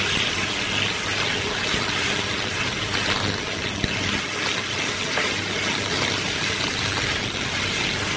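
Shallots and aromatics frying in oil in a stainless steel wok, a steady sizzling hiss, with the spatula stirring and scraping the pan.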